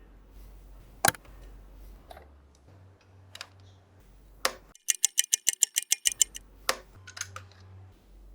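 Small plastic toy parts clicking and tapping as they are handled, a few separate sharp clicks, with a quick even run of about a dozen ticks about five seconds in.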